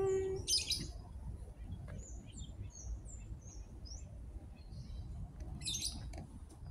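Small birds chirping with short, high, falling notes, and two brief raspy bursts of calls, one about half a second in and one near the end. At the very start a cat's meow ends, held on one pitch.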